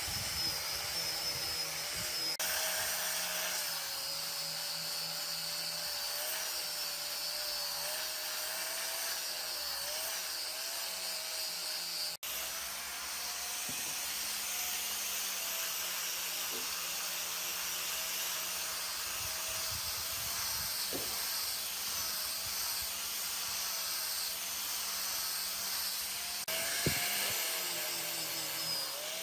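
A high-speed electric power tool running steadily, with a high whine that wavers a little in pitch over a strong hiss, cutting out briefly and resuming a few times.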